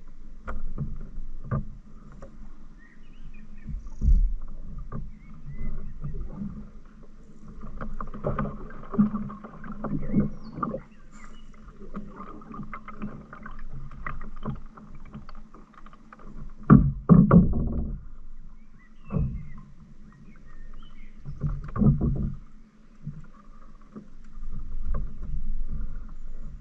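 Canoe being paddled: irregular paddle strokes splashing in the water, mixed with sharp knocks against the hull. The loudest splashes come a little past the middle and again a few seconds later.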